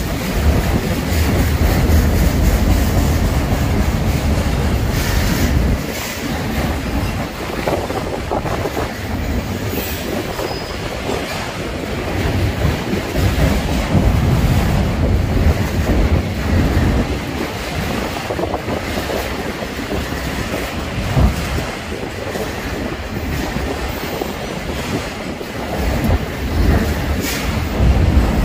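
Freight train cars rolling past close by, a steady heavy rumble with the wheels clicking over rail joints.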